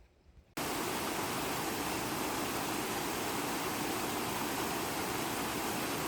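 Fast-flowing stream water rushing below a dam, a dense steady roar that cuts in abruptly about half a second in after near quiet.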